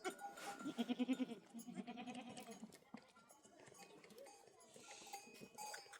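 Goats bleating in two wavering calls in the first few seconds, with the small bells of the herd ringing faintly.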